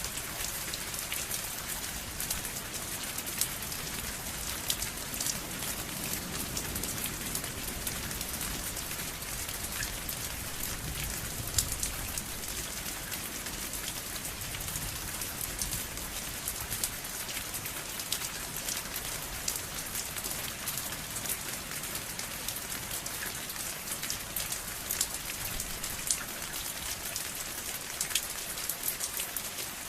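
Steady rain falling on a surface: a constant hiss with many individual drops ticking sharply through it.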